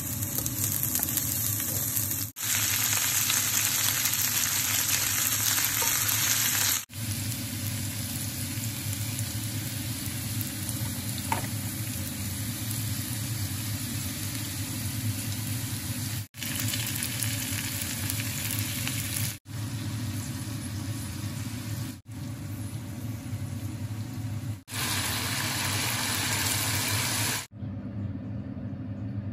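Garlic and then vegetables sizzling in hot oil in a frying pan as they are stir-fried, in a run of short clips that cut off abruptly every few seconds. A steady low hum lies underneath, and the sizzle falls away for the last couple of seconds.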